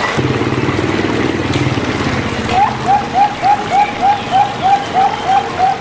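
Zebra dove (perkutut) calling, played as a lure recording. A low, buzzing coo comes first, then from about two and a half seconds in an even run of short rising-and-falling notes, about three a second. A steady rain-like hiss runs underneath.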